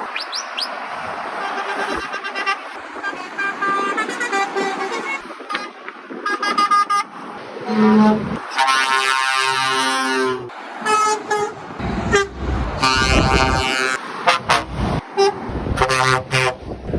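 Trucks passing on a highway and sounding their horns: a string of short toots, with two longer horn blasts of a few seconds each in the middle, over the noise of the traffic.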